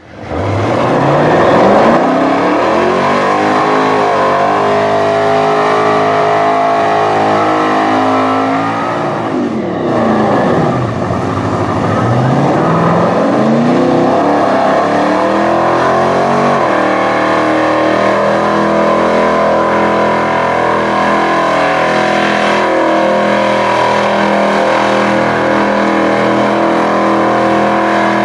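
Holden ute farm truck doing a burnout: engine revved hard and held at high revs with the rear wheels spinning. The revs drop and climb back twice around ten seconds in, then hold steady.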